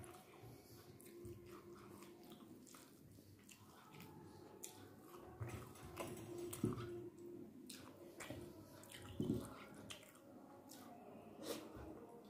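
Close-up eating by hand: chewing of rice and curry with small wet mouth clicks, and soft squishing as fingers mix rice on a plate. A few sharper knocks stand out, about six, nine and eleven seconds in.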